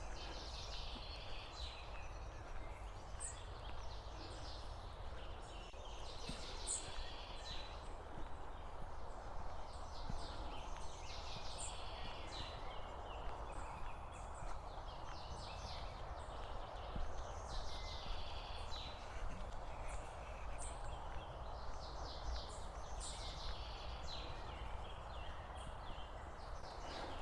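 Open-air countryside ambience: a steady background hum, with short bursts of high chattering or crackling every couple of seconds.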